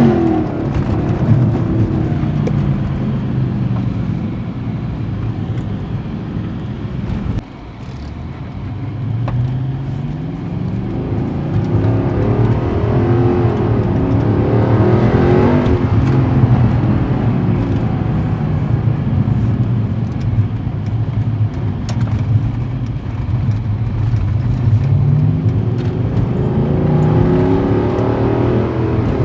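Mercedes-Benz AMG Black Series engine under way, its pitch climbing and falling several times as it pulls up through the gears, with a sudden brief dip about seven seconds in.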